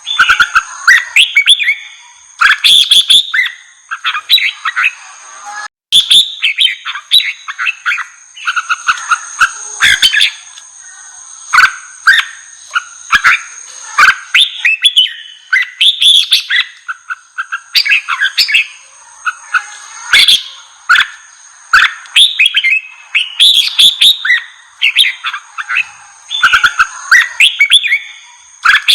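Red-whiskered bulbul singing a fired-up, aggressive song: runs of short, quick whistled and chirped phrases, one after another with barely a pause. A thin, steady high whine sits behind the song, and the sound drops out for an instant about six seconds in.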